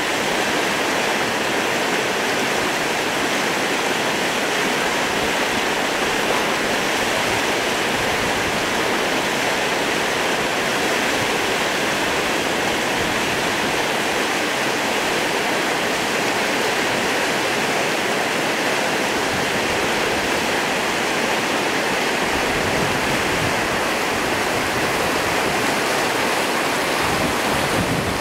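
Whitewater of a river rapid rushing, a steady, unbroken wash of water noise.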